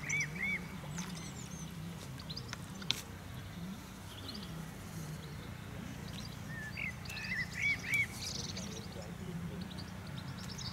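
Small birds calling in short arching whistled notes, a quick group just after the start and another about seven seconds in. A single sharp click comes about three seconds in, over a steady low background rumble.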